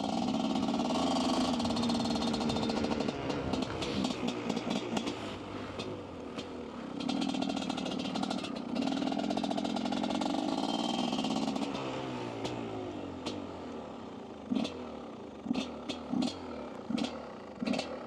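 Dirt bike engine running under throttle while riding, surging up and easing back twice, then several short sharp bursts near the end. The bike is running roughly and stuttering, which the rider puts down to a worn piston, or possibly the air filter.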